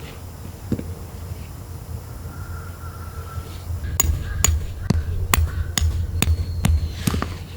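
Hammer blows in a steady rhythm, about two a second, eight sharp ringing strikes starting a little past halfway.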